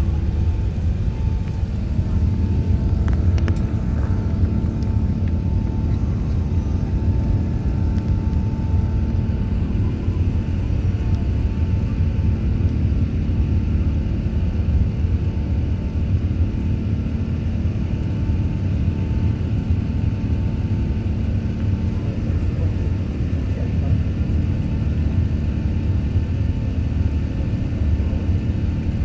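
Airbus A380-861's Engine Alliance GP7200 jet engines running steadily: a deep, even rumble with a faint high whine that holds level throughout.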